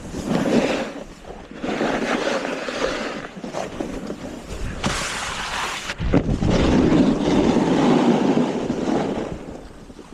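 Snowboard edges scraping and sliding over packed snow in uneven rushes, mixed with wind on the microphone.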